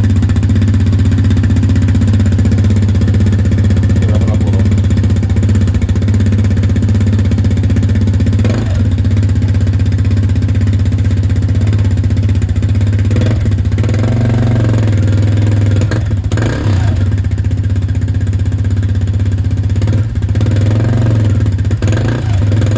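Small single-cylinder four-stroke engine of a Can-Am Renegade 110 youth ATV running through an HMF slip-on exhaust, loud and steady, with small shifts in pitch in the second half.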